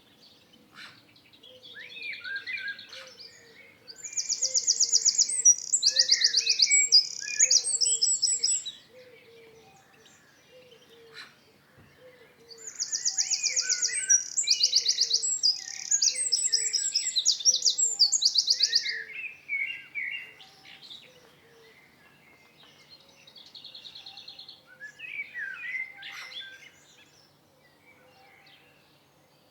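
Songbirds singing: two loud bouts of fast, high trills and warbled phrases, each lasting about five seconds, with quieter song before, between and after. Behind them a faint low note repeats steadily.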